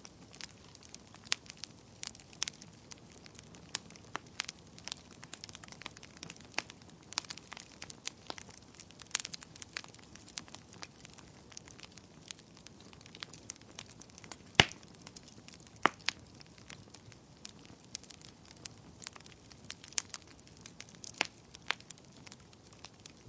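Logs burning in a fireplace, crackling with irregular sharp pops over a soft low hiss of flame; one pop a little past the middle is clearly the loudest, with another strong one about a second later.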